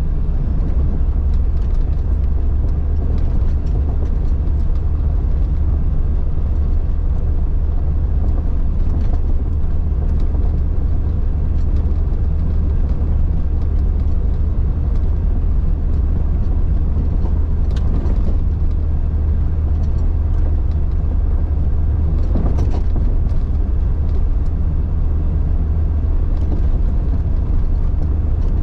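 A 1999 Jeep Cherokee XJ driving off-road on a snowy trail: a steady, loud low engine and drivetrain drone, with a few brief knocks in the second half.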